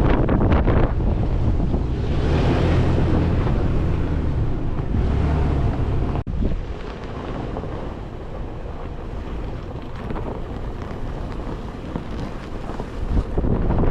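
Wind buffeting the microphone: a heavy, gusty low rumble that drops off after about six seconds and picks up again near the end.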